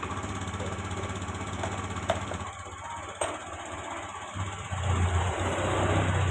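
Engine idling steadily after its oil change, getting louder about four and a half seconds in, with a couple of light ticks.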